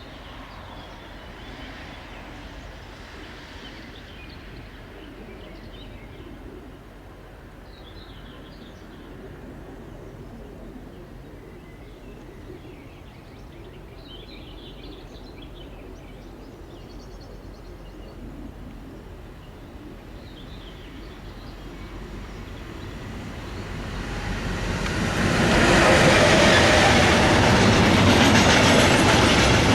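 Quiet outdoor background for most of the time, then a train approaching. It grows steadily louder about three-quarters of the way through and runs past close by, loud, to the end.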